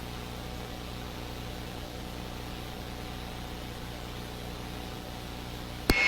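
Steady drone of a police helicopter's engine and rotor, heard on its onboard audio, with a hum of several even low tones over a light hiss. A short click comes near the end.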